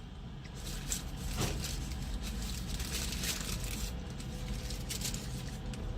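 Paper fast-food burger wrapper rustling and crinkling in irregular bursts as it is handled and unwrapped.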